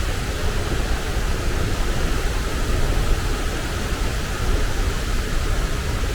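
Large waterfall rushing steadily close up, a loud even roar of falling water with a deep low rumble.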